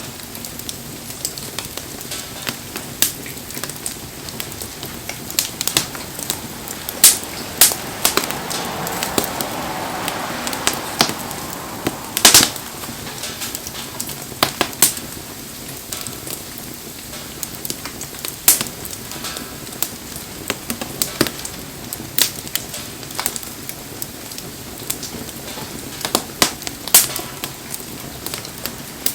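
Wood bonfire crackling, with sharp pops and snaps scattered irregularly, the loudest about twelve seconds in, over a steady hiss of rain. The fire swells briefly louder around eight to eleven seconds in.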